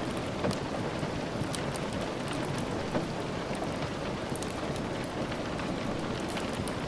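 Steady rain falling, with scattered sharp crackles and pops of a wood fire, one a little louder about three seconds in.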